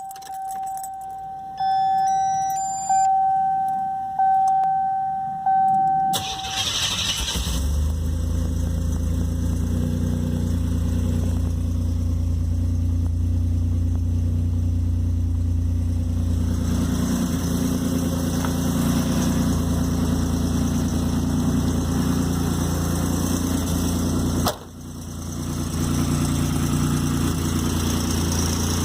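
A car's warning chime rings repeatedly for about six seconds. Then the Buick Turbo T's turbocharged 3.8-litre V6 cranks and starts from cold and settles into a steady idle. About 24 seconds in there is a sharp click and the sound briefly drops before the idle comes back.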